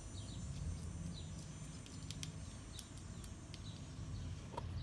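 Woodpecker pecking at wood in single, irregularly spaced sharp knocks, about eight of them, while small birds give short falling chirps over a low background rumble.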